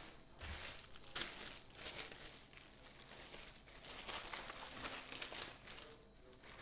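Deli-meat packaging crinkling and rustling in irregular bursts as it is handled.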